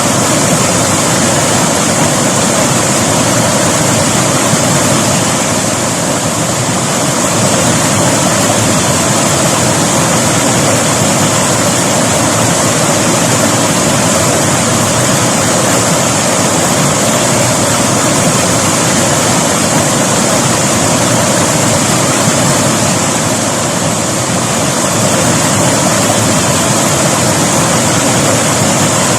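River water rushing and splashing in a steady, loud, unbroken flow.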